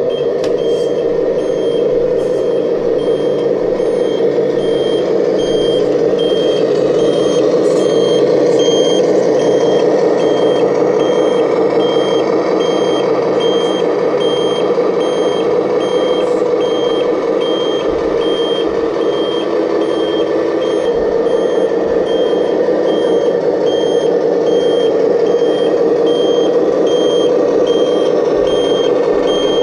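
Reversing alarm beeping steadily, about twice a second, over a continuous engine hum, as from a remote-control construction model's sound module.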